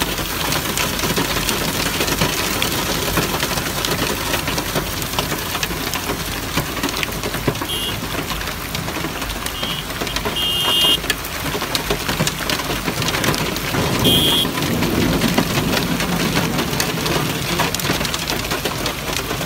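Heavy thunderstorm rain pouring down: a steady dense hiss full of sharp individual hits. A low rumble swells for a couple of seconds past the middle.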